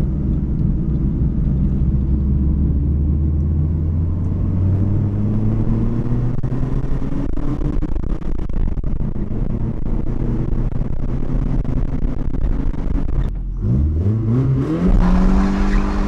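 Nissan 240SX's four-cylinder single-cam engine running under way, its note climbing slowly in pitch. About thirteen seconds in it drops out briefly, then sweeps quickly up and holds at a higher pitch.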